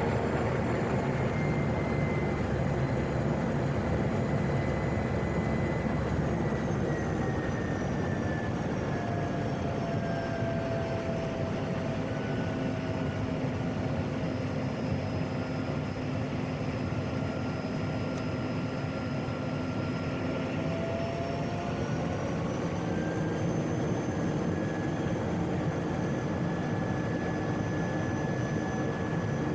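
Turboprop engine of a PAC 750XL, a Pratt & Whitney PT6A, running at taxi power with a steady rush of noise. Its whine slides down in pitch over several seconds near the middle and climbs again toward the end as the power changes.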